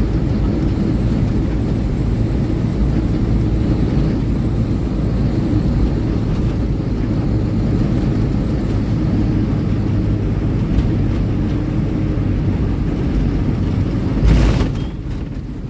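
Ashok Leyland Ecomet truck's diesel engine and road noise, a steady low rumble heard while driving along. Near the end comes one short loud noise burst, after which the sound drops a little.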